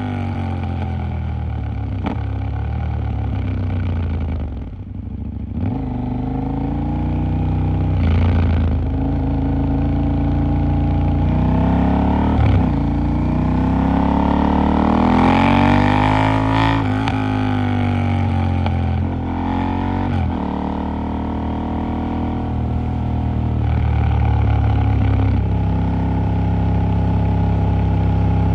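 KTM 890 Duke R's parallel-twin engine under way in city riding, the pitch rising and falling several times as the rider accelerates and shifts gear. There is a brief throttle-off near five seconds, and the engine runs steadier over the last several seconds.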